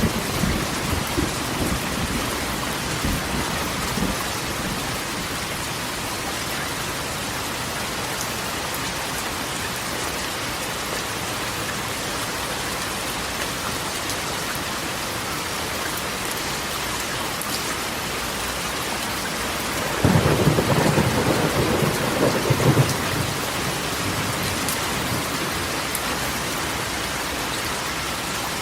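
Steady rain drumming on a corrugated tin roof, with thunder rumbling in the first few seconds and a louder thunderclap about twenty seconds in that rolls for around three seconds.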